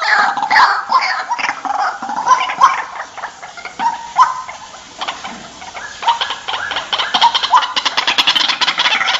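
White-breasted waterhen calling: short repeated notes about twice a second that fade through the middle, then a fast rattling series that builds near the end.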